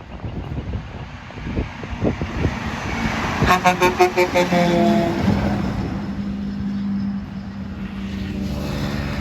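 Truck air horn sounding a quick series of about six short blasts, several pitches together, over the sound of a passing truck's engine, which then runs on as a steady low drone.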